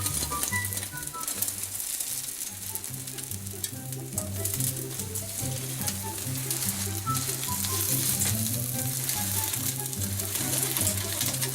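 Beaten egg sizzling in a frying pan as a rolled omelette (gyeran-mari) cooks, a steady crackling hiss. Background music with a melody plays along.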